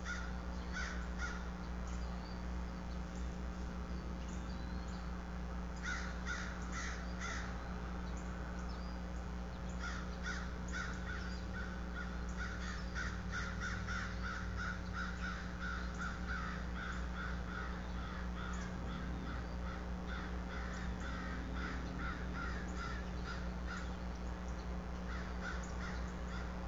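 Birds calling outside the nest: short harsh notes in brief bursts, then a long rapid run of repeated notes from about ten seconds in that stops a few seconds before the end, over a steady low electrical hum.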